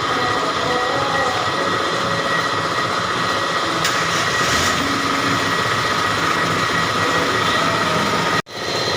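Engine running steadily, a dense mechanical rumble with a few steady whining tones over it. The sound drops out abruptly for an instant near the end.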